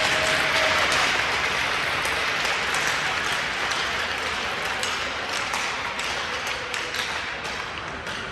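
Crowd applause dying away over several seconds, with sharp taps and clicks standing out more as it fades.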